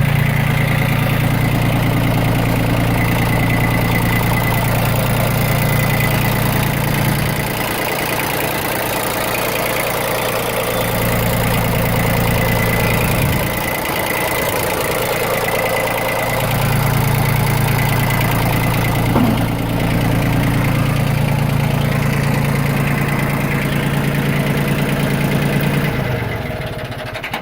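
Yanmar FX17D compact tractor's diesel engine running steadily out of gear, really smooth. The hum weakens twice in the middle and stops near the end.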